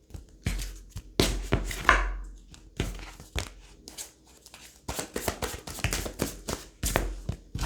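Tarot cards being handled: an irregular run of sharp card flicks, taps and short rustles.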